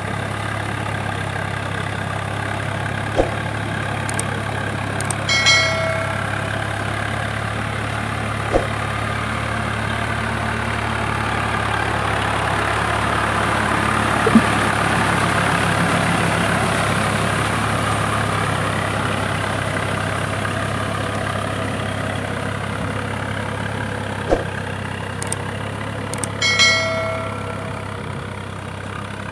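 Tractor diesel engine running steadily, rising a little in the middle and easing off again. Two short metallic dings sound, about five seconds in and near the end.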